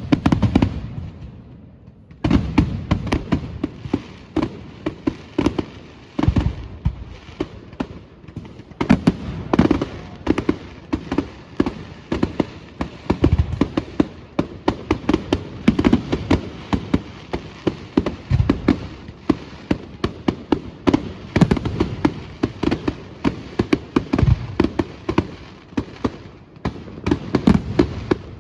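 Fireworks display: a rapid, continuous barrage of sharp bangs and deeper booms, many a second. There is a brief lull about a second in, then nonstop volleys.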